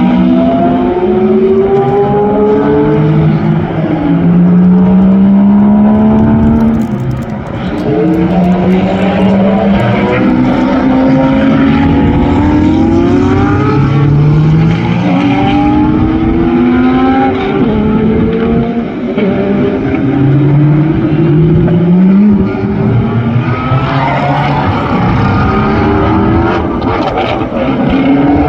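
Loud supercar exhaust: engines accelerating hard through the gears, the note climbing in pitch, dropping at each upshift and climbing again, over and over.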